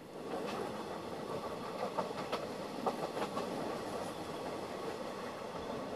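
Passenger train running at speed, heard from inside the carriage: a steady rumble of wheels on rails, with a few sharp clacks over rail joints about two to three seconds in.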